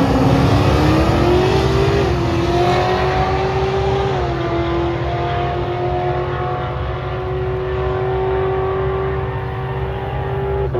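Car engine accelerating hard down a drag strip: the pitch climbs, then drops at gear changes about two and four seconds in, and holds steady as the car pulls away and its sound fades in the upper range.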